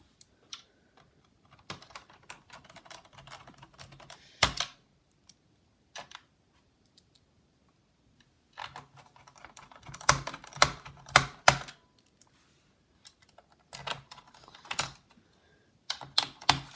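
Small screws being driven into a laptop's plastic case with a precision screwdriver: clusters of light clicks and taps with pauses between them, and a sharper click about four and a half seconds in.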